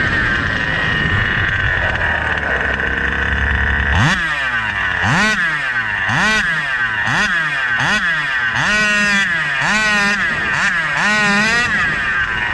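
SCZ E290 29cc two-stroke reed-valve RC engine running low for about four seconds, then revved in a series of quick throttle blips, roughly one a second and coming faster, each rising and falling in pitch. A steady high whine runs underneath.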